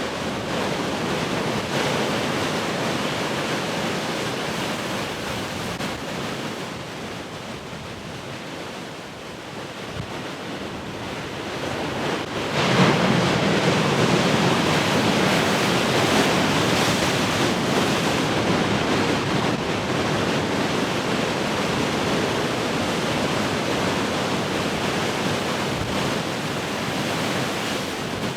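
Heavy ocean surf: waves breaking and washing ashore continuously, easing off briefly about eight seconds in before a big wave crashes suddenly about thirteen seconds in.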